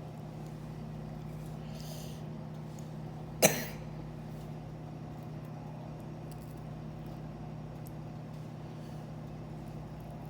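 A steady low hum, like a running appliance or motor, with one sharp knock about three and a half seconds in and a few faint clicks.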